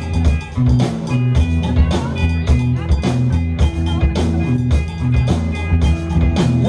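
Live rock band playing an instrumental stretch: a steady drum beat under repeating bass lines and electric guitar.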